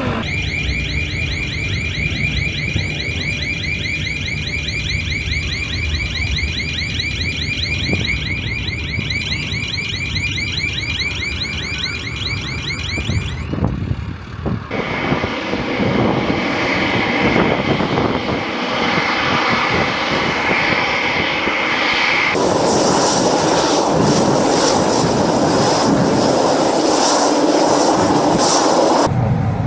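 Carrier aircraft engines running on the flight deck. First comes a high, warbling whine. After a sudden break it gives way to louder engine noise, which swells about two-thirds of the way in to a loud rush with a steady high whistle over it.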